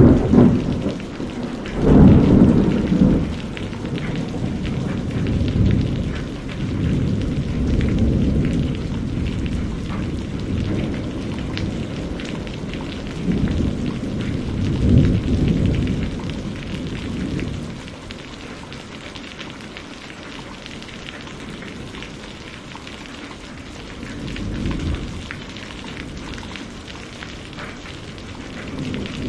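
Steady rain with rolling thunder. The loudest rumble comes about two seconds in, with further long rumbles through the first half and a weaker one near the end; between them only the rain is heard.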